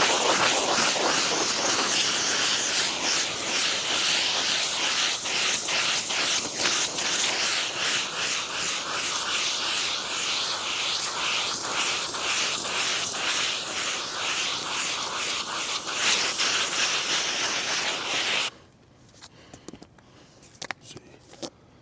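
Steady rushing hiss of cleaning work on car floor mats, loosening the dirt before vacuuming, with rhythmic back-and-forth strokes about twice a second; it stops abruptly near the end, leaving a few faint clicks.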